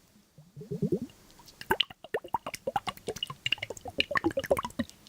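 A short low burst, then an irregular run of small wet clicks and pops lasting about three seconds.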